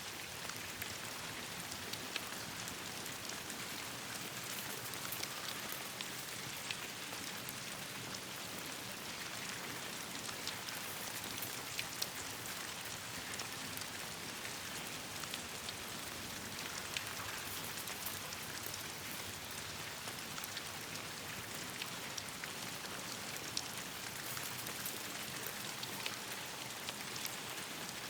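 Steady rain falling on leaves, an even patter with many scattered short sharp ticks and pops throughout.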